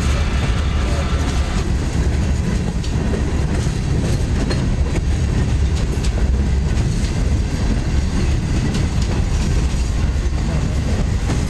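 Mixed freight train cars, covered hoppers and boxcars, rolling past close by: a steady heavy rumble with the clickety-clack of wheels over the rail joints.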